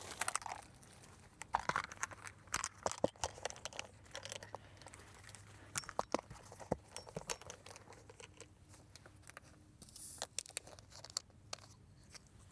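Crinkling and rustling of handled packaging, with scattered sharp clicks and taps, busiest in two clusters, one starting about a second and a half in and another near the end.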